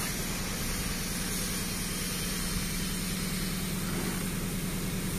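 A steady mechanical hum, like an engine running at an even speed, over a constant background hiss.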